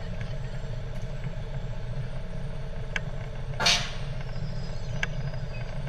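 Fire truck's engine running steadily with a low rumble. A short burst of hiss comes about three and a half seconds in, with faint clicks a little before and after.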